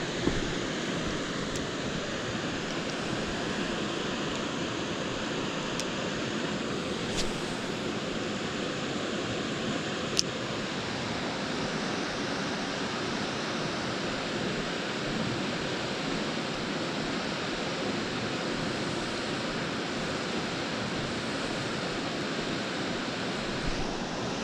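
Steady rush of moving creek water below a dam spillway, with two brief sharp clicks about seven and ten seconds in.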